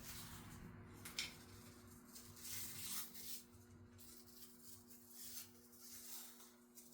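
Faint rustling and small ticks of cloth harness tape being wrapped by hand around split wire loom, over a steady low hum.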